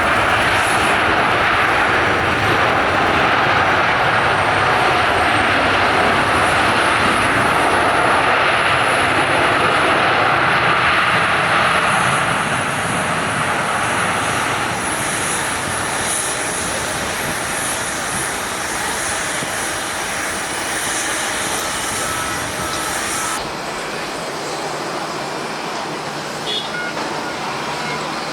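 Jet airliner engines, a loud steady roar for the first dozen seconds that then eases off; about twenty-three seconds in, the sound drops abruptly to a quieter steady background.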